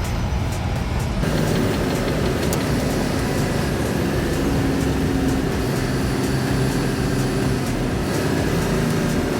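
Truck engine running steadily with road noise while driving.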